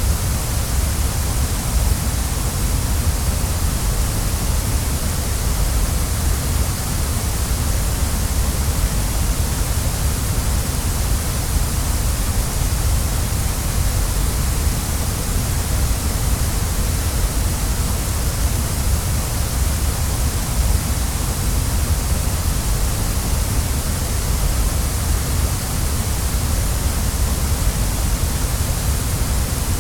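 Waterfall: a steady rush of falling water, even in level throughout, full in the lows with a hiss on top.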